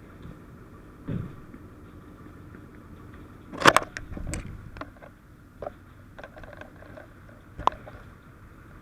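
Fire engine running steadily, with several metal clanks and rattles of gear being handled; the loudest is a burst of clatter about four seconds in, with a sharp click near the end.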